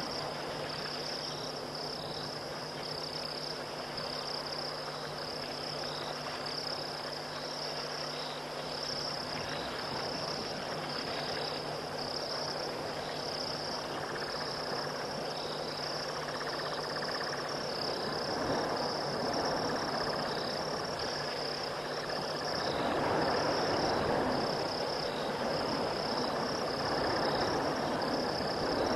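Night-time insect chorus of crickets: a steady high trill with a regularly repeated chirp, over a rougher noisy layer that grows louder in the second half. A low steady hum stops about three-quarters of the way through.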